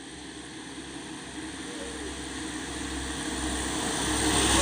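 A truck approaching along the road, its engine and tyre noise growing steadily louder as it nears.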